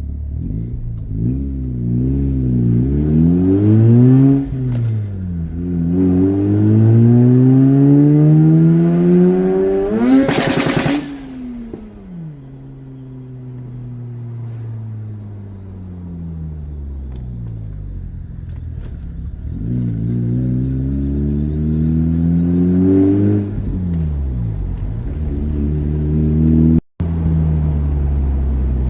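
Mazda RX-8's Renesis two-rotor rotary engine pulling hard under acceleration, rising in pitch through the gears with a drop at each shift. A short rushing noise comes about ten seconds in, then the revs fall away slowly before it pulls up again. The sound cuts out for an instant near the end.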